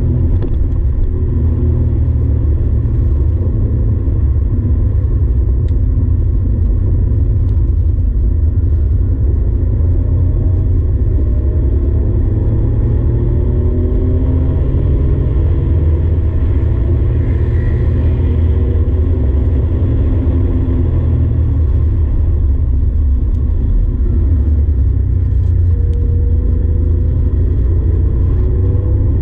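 Porsche 964's air-cooled flat-six engine heard from inside the cabin while lapping under load, its pitch rising repeatedly as it pulls through the revs, over a heavy steady low rumble.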